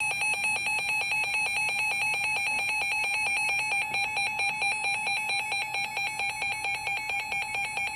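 Electronic emergency-alert attention tone that opens a severe thunderstorm warning broadcast: a steady, harsh electronic beep pulsing rapidly and evenly.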